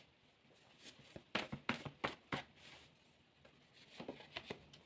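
Tarot cards being handled: a run of short, crisp clicks and slaps as cards are shuffled and laid down, in two clusters, about a second in and again near the end.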